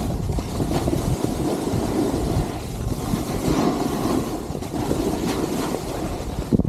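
Skis scraping and carving over packed snow during a downhill ski run, with wind rushing over the microphone; the noise rises and falls every second or so.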